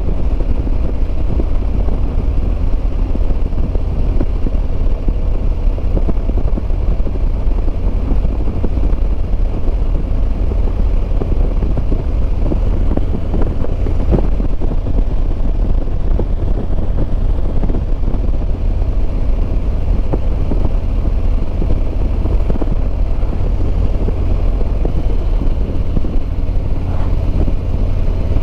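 2021 Harley-Davidson Road Glide Limited's Milwaukee-Eight 114 V-twin engine running steadily while cruising, with wind rushing over the microphone.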